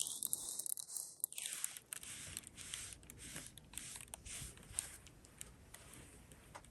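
Faint scattered clicks and light rustling of small jewelry pieces being handled and picked through.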